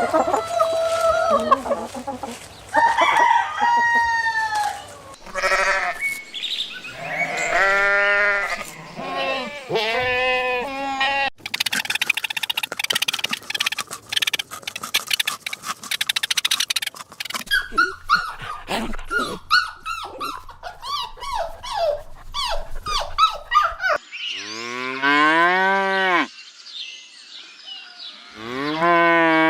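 Farm animal calls cut one after another: a series of long pitched calls of cattle and goats or sheep mooing and bleating, with a noisier stretch of fowl sounds around the middle.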